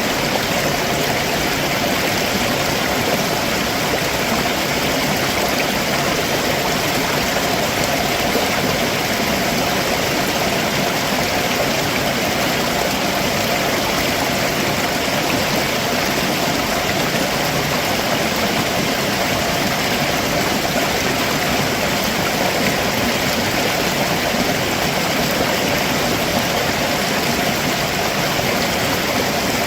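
Stream water rushing steadily over rocks below a waterfall, an even, unbroken rush.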